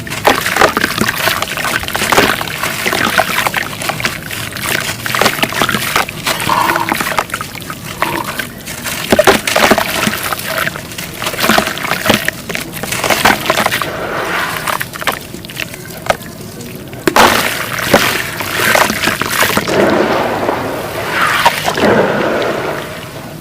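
Wet paste being dipped in water and worked by hand, giving sloshing and wet squelches with a dense run of sharp crackles.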